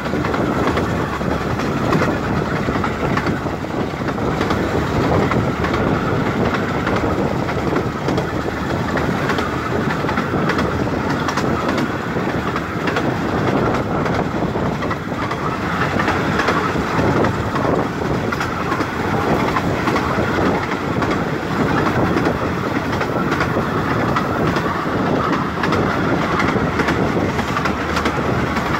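A 15-inch-gauge Bure Valley Railway train running steadily along the line, its wheels clicking over the rail joints.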